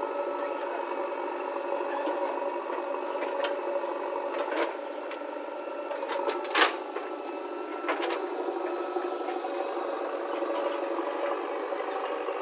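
Diesel engine of a backhoe loader running steadily while loading mud, with three short sharp knocks about four and a half, six and a half and eight seconds in, the middle one the loudest.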